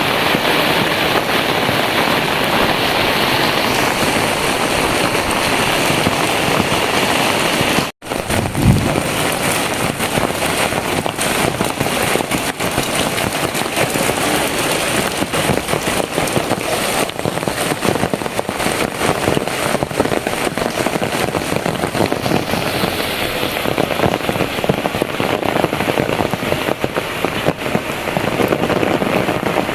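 Heavy rain pouring steadily, a dense hiss of falling water. About eight seconds in the sound drops out for an instant and a dull thump follows; after that, sharp drop impacts patter thickly.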